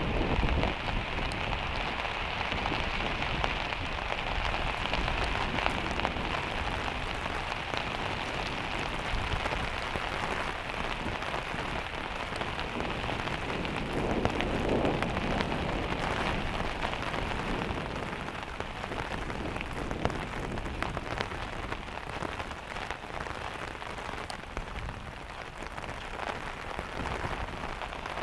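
Rain drumming on a van's metal roof: a steady patter of countless separate drop ticks, easing a little after about halfway.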